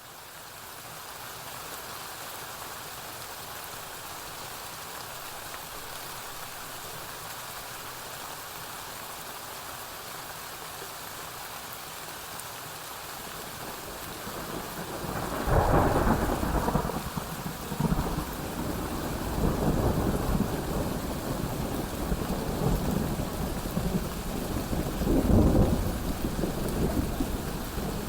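Steady rain hiss that fades in at the start. About halfway through, a long rolling thunder rumble sets in, swelling several times, with the loudest peaks just after it begins and again near the end.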